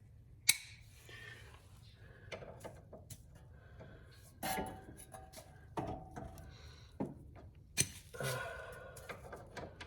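Metal hand tools and sockets clinking and knocking while being handled and rummaged through, with a sharp knock about half a second in and another later on.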